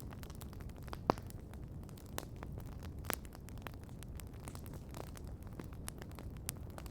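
Wood campfire crackling: irregular sharp pops and snaps, the loudest about a second in, over a steady low rumble of the burning fire.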